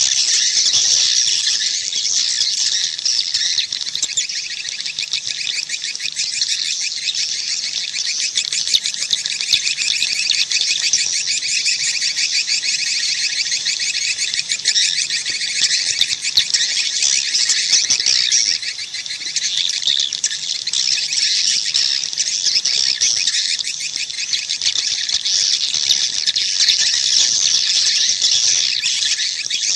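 Swiftlets twittering in a dense, unbroken chorus of rapid high chirps. It is a swiftlet call recording of the kind played to lure swiftlets into a nesting house.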